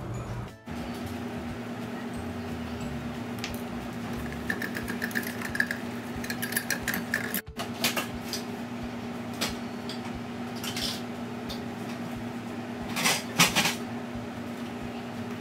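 Steady low kitchen hum, with a few quick metallic clinks against a stainless steel saucepan, the loudest cluster near the end.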